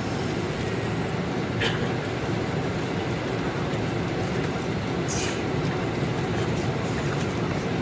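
Steady cabin noise inside a Boeing 747-400 during descent: the even rumble of engines and airflow around the fuselage. Two brief hisses come through about one and a half and five seconds in.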